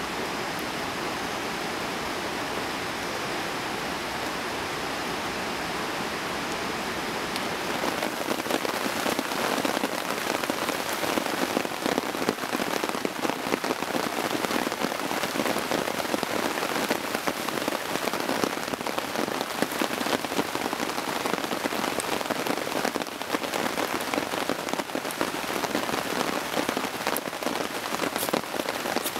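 Heavy rain falling, a steady hiss that turns louder and denser, with the patter of many drops, from about seven or eight seconds in.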